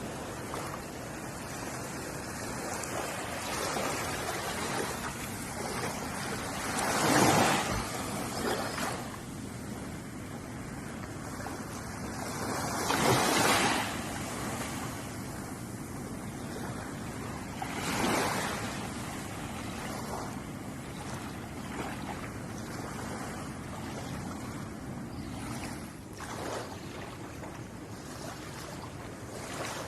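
Ocean waves washing onto a shore: a steady wash of surf, with louder waves breaking about every five or six seconds, three of them standing out.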